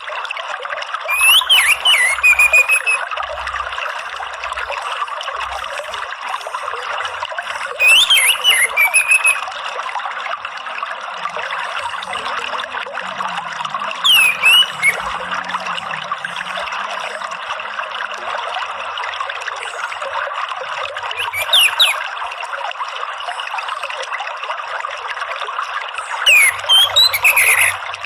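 Orange-headed thrush singing five short phrases of quick whistles, about every six seconds, over a steady trickle of running water.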